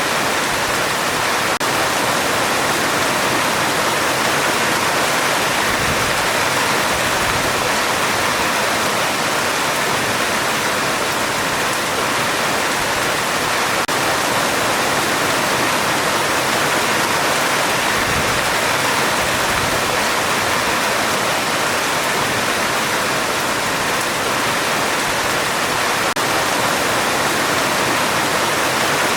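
Heavy rain falling steadily on a metal roof: a dense, even hiss with no let-up.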